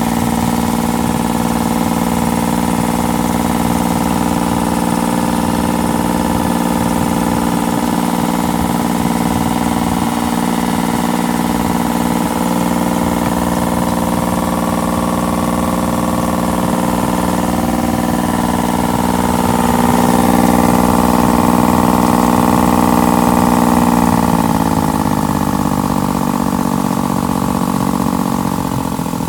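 Wasen boat engine running at a steady speed. Its revs rise slightly about two-thirds of the way through, then fall back near the end.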